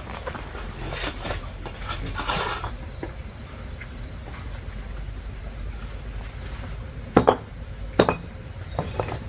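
Scraping and rubbing strokes for the first couple of seconds, then two sharp clinks about seven and eight seconds in.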